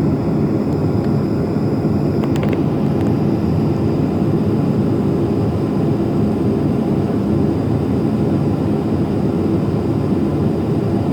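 Steady cabin noise of a Boeing 737-500 on the ground after landing: an even, low rumble from its CFM56-3 jet engines and the air system, heard inside the passenger cabin. A few light clicks come about two seconds in.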